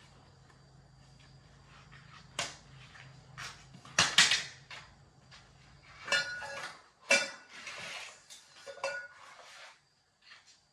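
Metal objects clanking and clinking as they are handled, a dozen or so sharp strikes with a ringing after some, the loudest about four seconds in, over a faint low hum that stops about six and a half seconds in.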